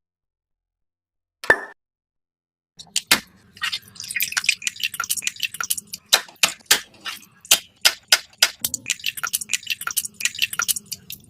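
A single click, then from about three seconds in a long run of quick, irregular light clicks and clinks over a faint low hum.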